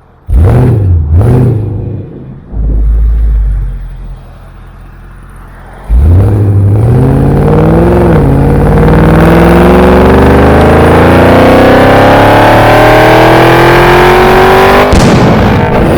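Car engine blipped twice, then held at full throttle for a long pull, its pitch climbing steadily with one brief dip partway through. A sudden burst of noise comes near the end.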